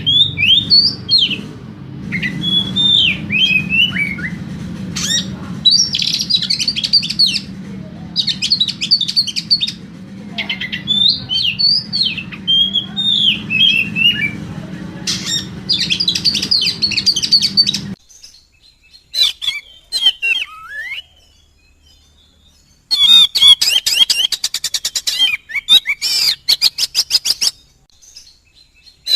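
Oriental magpie-robin (kacer) singing energetically. Varied whistled phrases alternate with fast, buzzy rattling bursts, the longest from about 23 to 27 seconds in. A steady low hum lies under the song until about 18 seconds in, then stops abruptly.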